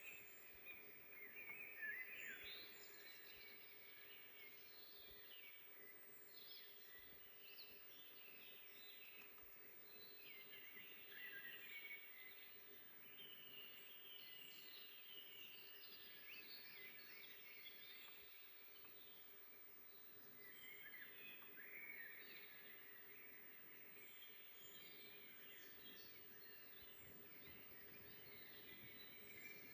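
Faint chorus of several forest songbirds chirping and trilling over and over, with a faint steady low hum underneath.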